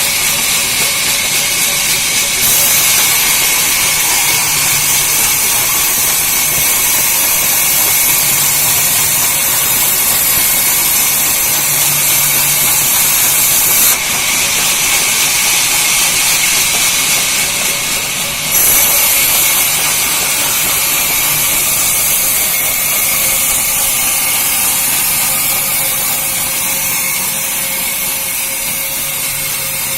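Sawmill saw cutting through a log: a steady, loud hissing noise that turns brighter and harsher a couple of seconds in, eases briefly midway, then resumes.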